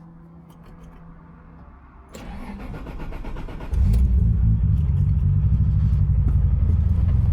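Toyota Supra MK4's turbocharged 2JZ-GTE inline-six starting: a rough, rising sound from about two seconds in, then the engine catches about three and a half seconds in and runs loud and deep at idle.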